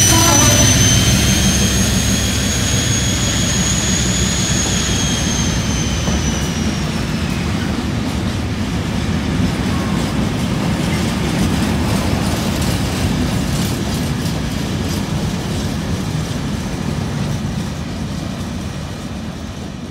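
Colas Rail Freight Class 56 diesel locomotive moving away: its engine sound and a high whine fade out over the first several seconds. A long rake of empty open freight wagons follows, rolling past with a steady rumble of wheels on rail and a few clicks, fading near the end.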